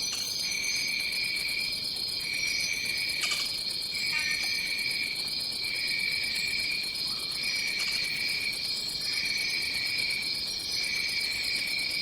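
Rainforest insect chorus: a steady high-pitched drone, with a lower trilling call that repeats in phrases of about a second and a half separated by short gaps. Faint higher chirps come and go.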